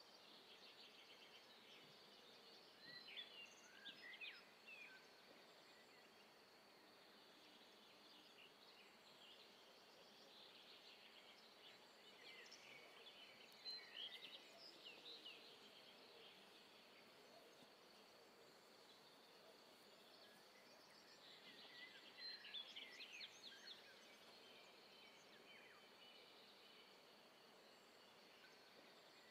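Near silence: faint outdoor ambience with a steady hiss and birds chirping in three short spells.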